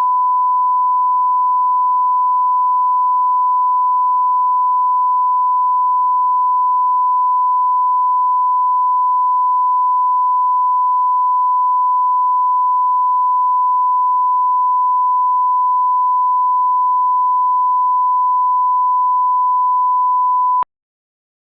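A steady, unwavering pure test tone, the line-up tone laid at the head of a broadcast master. It cuts off suddenly about a second before the end.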